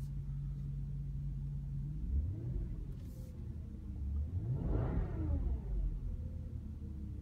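2014 Audi RS4's 4.2-litre naturally aspirated V8 idling, then free-revved while stationary: a short rev about two seconds in, then a bigger rev that climbs to a peak around five seconds in and falls back to idle. Heard from inside the cabin.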